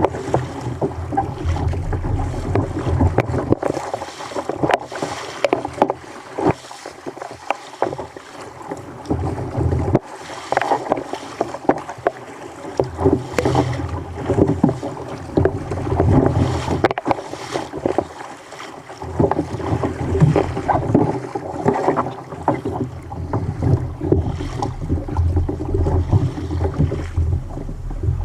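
Water splashing and slapping irregularly against a fishing kayak on a rough sea, with wind rumbling on the microphone in gusts.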